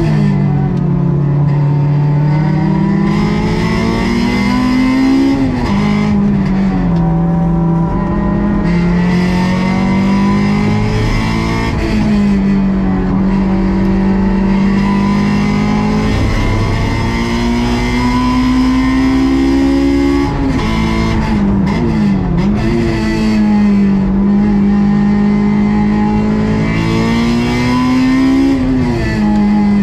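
A Honda S2000 AP2's stock 2.2-litre four-cylinder engine (F22C1) being driven hard on track. Its pitch climbs under acceleration and drops sharply about five, twenty and twenty-nine seconds in, with a wavering stretch just after the second drop.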